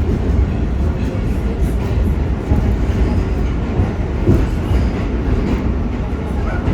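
R46 subway train running through the tunnel: a steady, loud rumble of wheels on rail and traction motors.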